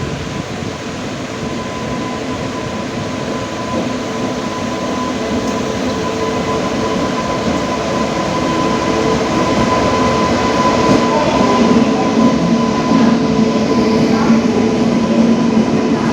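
Garib Rath Express passenger train pulling into the station, a dense rail rumble growing steadily louder, with a steady whine over it.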